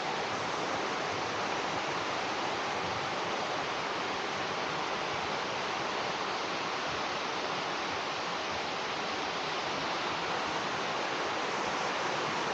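Steady rush of water cascading down a waterfall: an even, unbroken noise.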